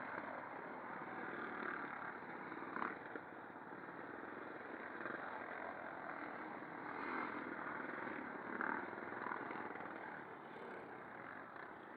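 Pre-65 classic motocross motorcycles' engines running, a faint, steady mixed engine sound.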